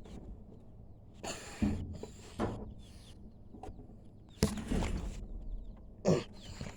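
A few knocks and rustling handling noises, as of a coop being opened and walked into, over faint background sounds from chickens.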